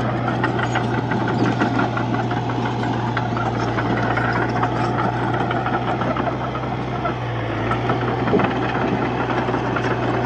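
Komatsu D31P bulldozer's diesel engine running steadily under load, with a constant low drone and a fast clatter of metallic clicks and rattles. The engine note sags briefly about seven seconds in, then recovers.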